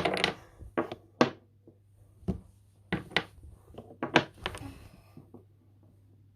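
Wooden Jenga blocks clacking against each other as they are set in place, a string of sharp knocks at uneven intervals.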